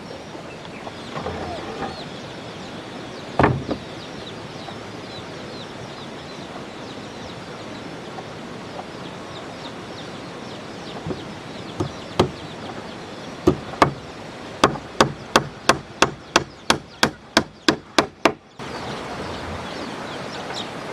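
Hammer blows on wood, a single knock followed later by a quick even run of about a dozen strikes, roughly three a second, that ends abruptly. Chickens cluck faintly in the background.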